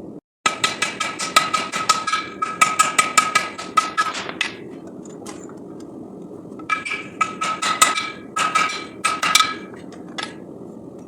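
Hand hammer blows on hot steel bar at the anvil, in quick runs of about four strikes a second with a clear ringing tone from the anvil. Two runs are split by a pause of about two seconds, and one lone blow falls near the end, over a steady low noise underneath.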